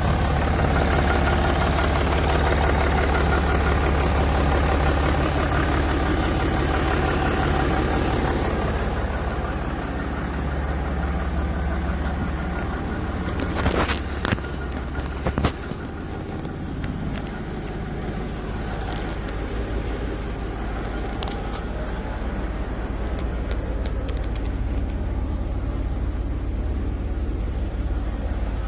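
Jaguar XF 3.0 V6 idling steadily, loud for the first eight seconds or so and then quieter. A few sharp clicks and knocks come about halfway through.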